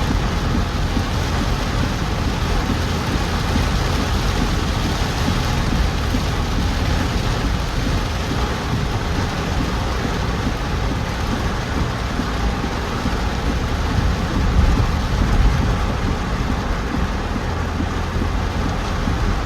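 Heavy monsoon rain on a moving car, over the steady low rumble of the car and its tyres on the wet road. It swells briefly about fifteen seconds in.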